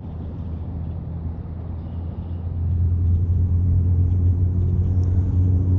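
A steady low engine hum that grows louder about two and a half seconds in.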